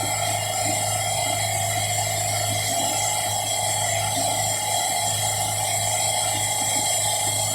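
Wood-Mizer LT70 sawmill with its diesel engine running steadily, a constant hum with a high whine and hiss, heard from inside the operator's cab.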